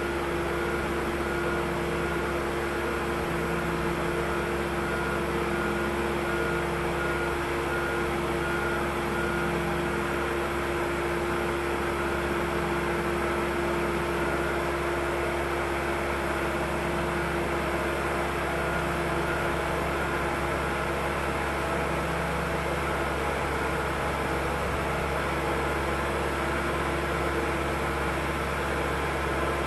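Steady machine hum with a constant low tone and an even noise beneath it, unchanging in level.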